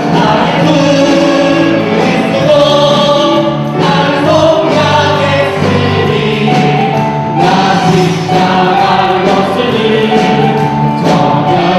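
Church choir singing a Christian song, many voices holding sustained notes together.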